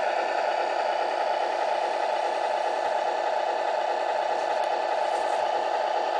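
Scania Torpedo RC model truck's simulated engine sound idling steadily, thin and without deep bass.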